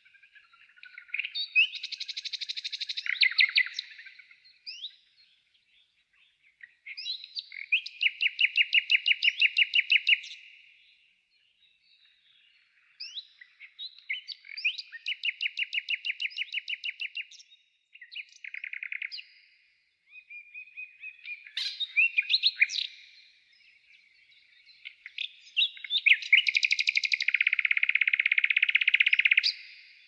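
A songbird singing: about six phrases of rapid trilled notes, each lasting one to four seconds, broken up by short rising and falling whistles and chirps, with brief pauses between phrases. The longest and loudest phrase comes near the end.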